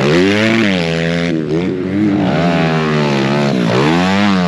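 Several pit bikes racing past, their small engines revving hard, the pitch repeatedly dropping and climbing again with throttle and gear changes.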